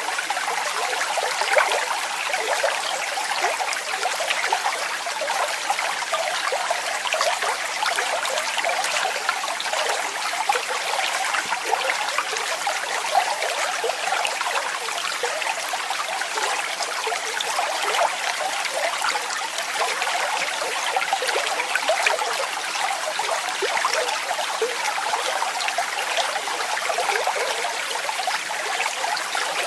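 Waterfall: falling water splashing steadily, a continuous bright rush made of many small splashes, with little deep rumble.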